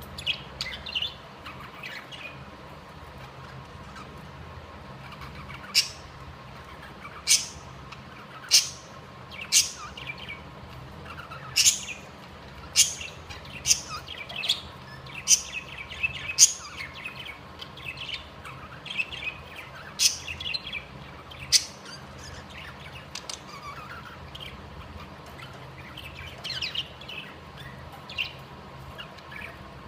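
Budgerigars chirping: a string of short, sharp chirps, about a dozen loud ones through the middle of the stretch, with softer twittering chatter between them and toward the end.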